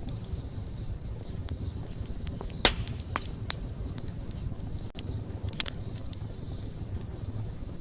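Open wood fire crackling, with scattered sharp pops and snaps over a low, steady rumble of the flames; the loudest pop comes a little under three seconds in.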